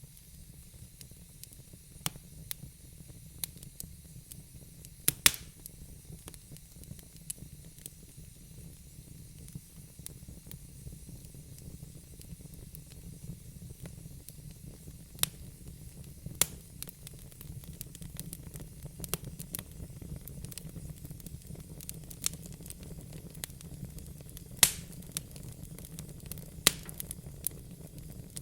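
Wood fire burning in a fireplace: a steady low rumble and hiss with irregular crackles and sharp pops, the loudest pops every few seconds.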